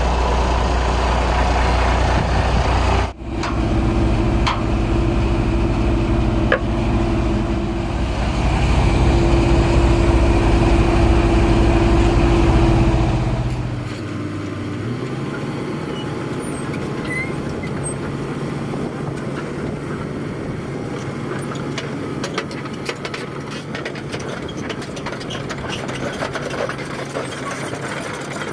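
Heavy diesel truck engine running loud and close, with a brief break about three seconds in. About halfway through it drops away, leaving a quieter, steady low engine hum with scattered clicks.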